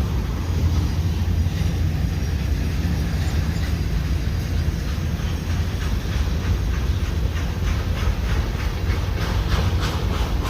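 Freight train rolling past with a steady low rumble, its wheels clicking over rail joints in an even rhythm of about three clicks a second that grows distinct in the second half.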